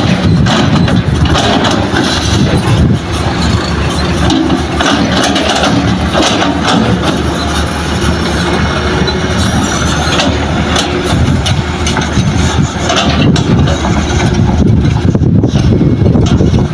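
Heavy diesel machinery, a Hitachi excavator working with a dump truck, running steadily under load, with occasional short knocks.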